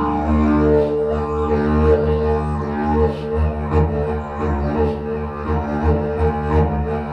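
A didgeridoo playing a continuous low drone with a stack of overtones, pulsed by rhythmic swells, inside a hand-carved rock tunnel.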